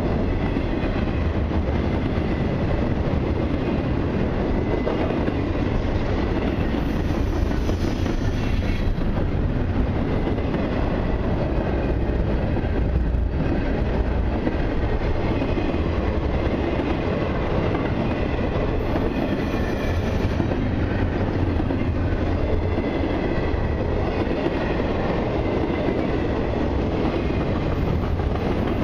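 A long intermodal freight train rolls steadily past, its wheels clacking over the rail joints, with faint high-pitched wheel squeal at times.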